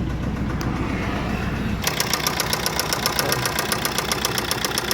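Maruti Swift diesel engine idling. About two seconds in, the sound changes suddenly to a fast, even knocking from the engine, which the mechanic traces to a worn, rubbed crankshaft.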